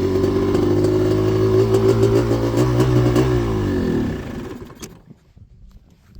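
Yamaha Blaster 240cc big-bore two-stroke single with an FMF exhaust running at steady revs, then its pitch falls and the engine sound dies away about four seconds in, leaving only faint ticks.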